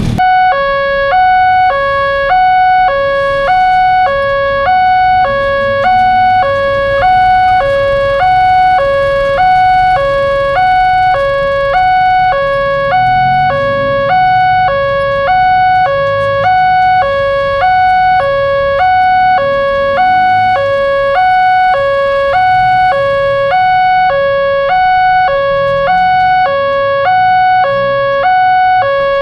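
Indonesian railroad crossing warning alarm sounding: an electronic two-tone signal that alternates between a lower and a higher tone about once a second, over a steady high-pitched tone. The alarm signals that a train is approaching and the crossing is closing.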